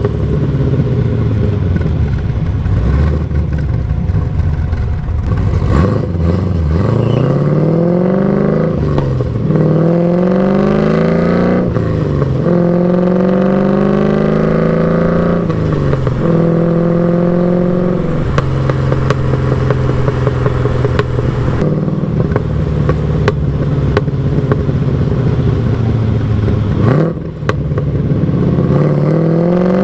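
LS1 V8 exhaust from an LS-swapped BMW E36 under way, revs climbing and then dropping off sharply about five times, as at gear changes on its T56 manual gearbox. In the middle the engine holds a steady pitch for several seconds.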